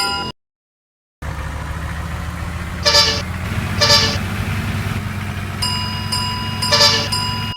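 Railway crossing bell stops, then after a second of silence a train runs past with a steady low rumble and sounds three short horn toots. Near the end a steady crossing warning tone comes back in.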